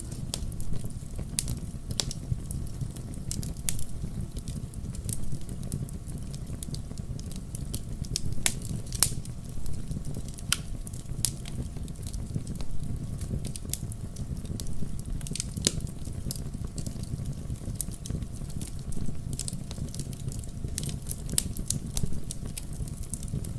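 Wood campfire burning with a steady low rumble and irregular sharp crackles and pops, a few louder snaps scattered through.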